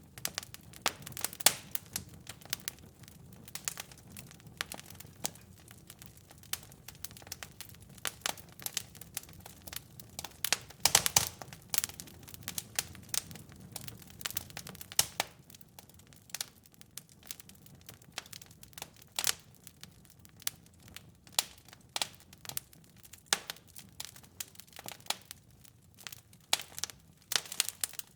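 Wood fire crackling, with irregular sharp pops and snaps over a low hiss and a denser run of crackles about eleven seconds in.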